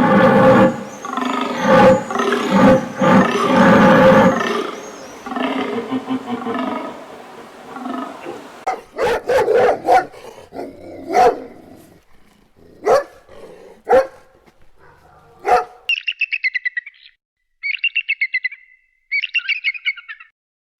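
A run of different animal calls, one after another. First comes a loud, pitched calling that repeats for about five seconds and then fades. Next come a series of short, sharp single calls, and near the end there are three trains of rapid high-pitched chirping.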